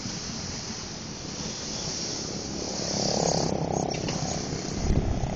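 Malabar passenger train's coaches rolling past below, a steady rumbling clatter of wheels on the rails that swells a little about three seconds in. A few low thumps come near the end.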